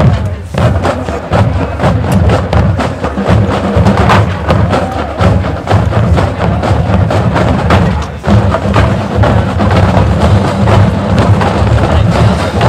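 High school marching band playing loudly, driven by dense, rhythmic percussion strikes over a heavy low end, with a brief drop in level about eight seconds in.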